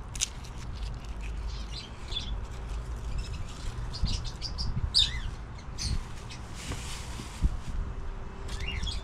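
Birds chirping: short high calls scattered throughout, over a low rumble.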